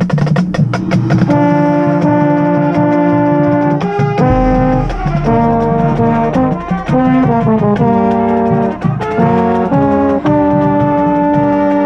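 Marching band brass playing sustained, shifting chords, with a deep bass line coming in about four seconds in and drum hits at the start and near the end.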